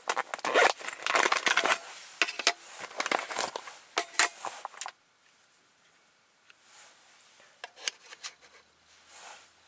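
Dense crinkling and crackling, as of something being handled or crumpled, for about five seconds, then only a few faint clicks and rustles.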